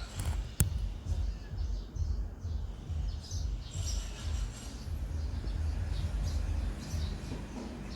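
Outdoor ambience: a low rumble on the microphone throughout, faint bird chirps, and one sharp click about half a second in.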